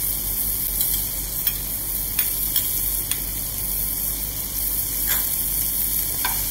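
Diced bacon and sliced garlic sizzling in rendered bacon fat in a frying pan over medium heat, a steady hiss with scattered small crackles and pops.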